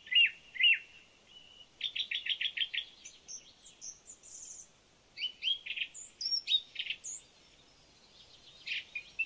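Songbirds chirping and singing: quick down-sliding chirps, a fast run of repeated notes and higher whistled phrases, with short pauses between them.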